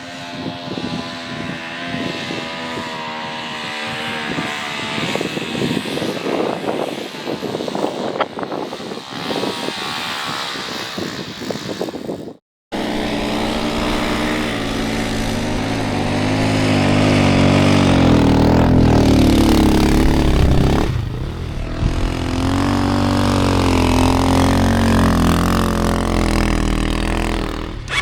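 450cc single-cylinder four-stroke snowbike engine running under throttle, its pitch rising and falling. It cuts off abruptly about halfway through, and the engine comes back louder and closer, revving up and down.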